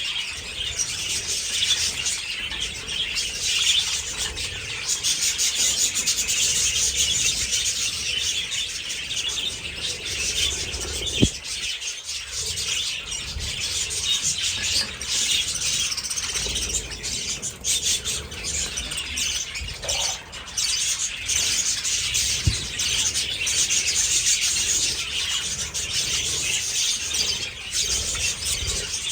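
A flock of budgerigars chattering continuously, a dense high-pitched twittering of many birds at once, with two brief sharp clicks along the way.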